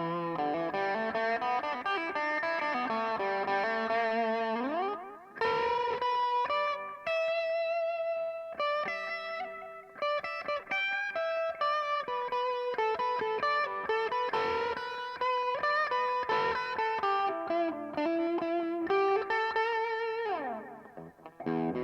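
Electric guitar played through a delay pedal: a melodic line of sustained notes with vibrato, with a slide up about four and a half seconds in and another near the end.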